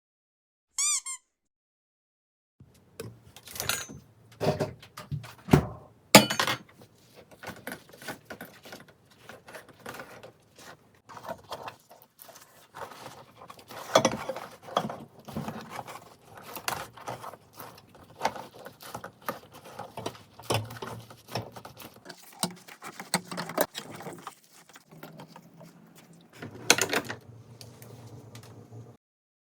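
A short squeaky chirp, then a long run of irregular clicks, knocks and rustles as kitchen containers, utensils and cloth are handled while making yogurt.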